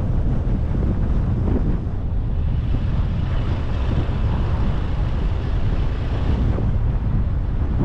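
A car driving along a road, with a steady low rumble of wind buffeting the microphone mixed with road noise.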